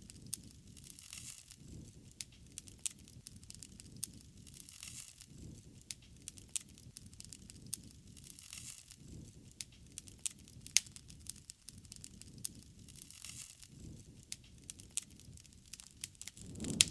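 Wood fire burning: irregular sharp crackles and pops over a low, steady rush of flame.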